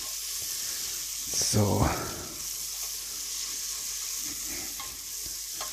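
Onions frying in butter and oil in a pot, a steady sizzle, while a spoon stirs them through.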